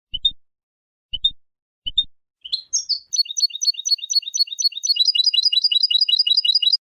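European goldfinch singing: three short call notes about a second apart, each with a low knock under it, then a fast run of repeated notes, about eight a second, that cuts off suddenly near the end.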